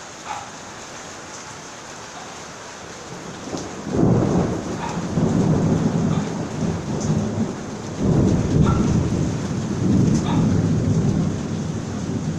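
Steady rain falling, then thunder: a low rumble starts suddenly about four seconds in, swells again with a second peal about eight seconds in, and rolls on under the rain.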